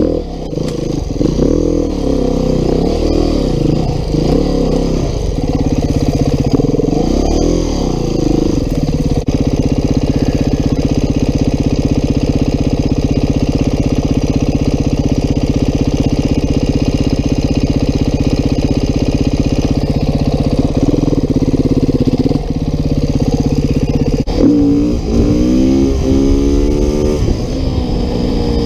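Beta 390 RR-S single-cylinder four-stroke enduro engine running under a rider on the trail. The revs rise and fall over the first several seconds, hold steady for a long stretch, then climb in a few quick rising revs near the end.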